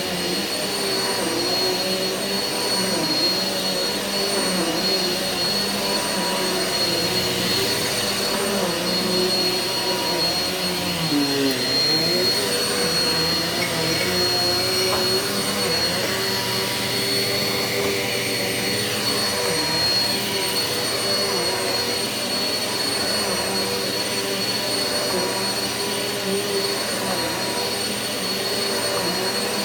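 Eureka vacuum cleaner running steadily on carpet: a constant high motor whine over a lower hum whose pitch wavers and dips briefly about halfway through.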